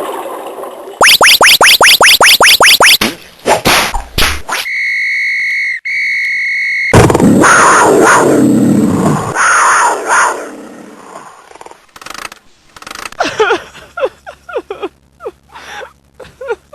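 A run of cartoon sound effects, one after another: a quick string of rising whistle sweeps, a few knocks, a steady electronic beep, then a loud roar-like animal growl, and short chirps near the end.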